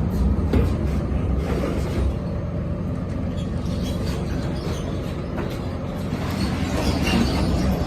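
Steady low rumble of a heavy vehicle running, with no clear breaks or impacts.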